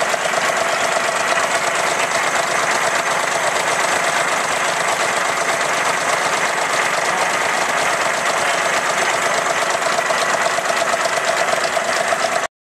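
1955 Rootes diesel engine running steadily, with a fast, even knocking beat. The sound cuts off abruptly near the end.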